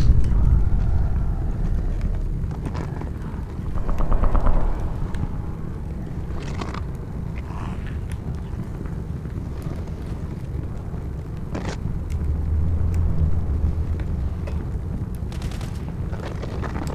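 Steady low rumble with a few scattered sharp gunshot cracks. A short, rapid rattling burst comes about four seconds in.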